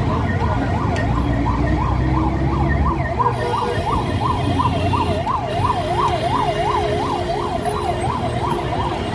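Electronic siren yelping, its pitch sweeping up and down about three times a second, over a steady low rumble of engines or traffic.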